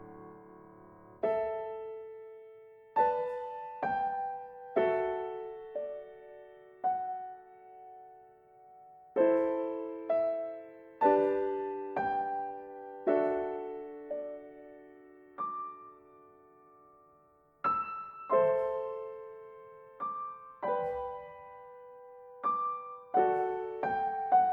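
Slow, gentle solo piano music, single notes and soft chords struck one at a time and left to ring and fade, in short phrases with pauses between them.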